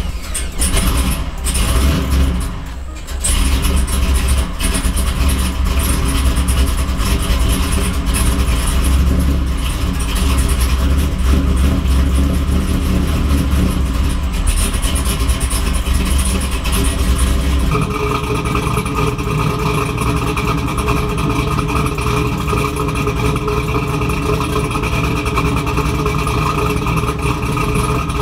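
2002 Camaro SS's cammed LS1 V8 with a full SLP exhaust, idling steadily just after being started on a home-made raised-idle tune. About eighteen seconds in, its tone changes abruptly.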